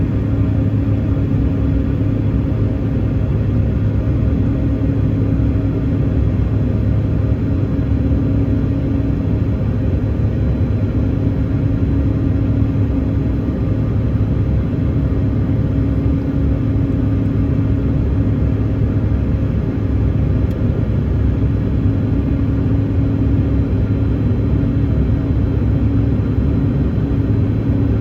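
Passenger airliner cabin noise: the jet engines' steady drone and rumble, with a constant low hum, heard from inside the cabin.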